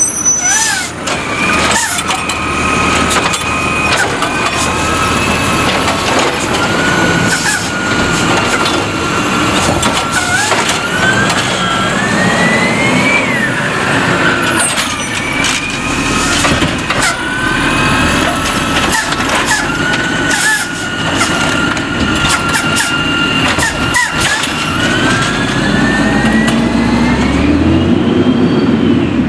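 Recycling truck working its route: the engine drones and revs, with whines that rise and fall as it moves and works, and several short sharp hisses or clanks such as air brake releases.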